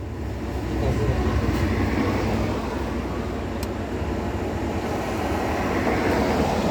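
Steady rumble and running noise heard from inside a moving vehicle, with one short click partway through.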